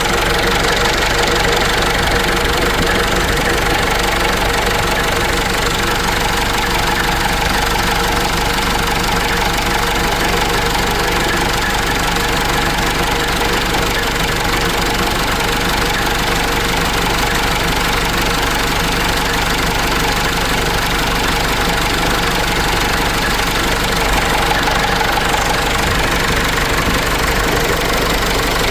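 Cummins 4BT four-cylinder diesel engine of a Case 586E forklift running steadily.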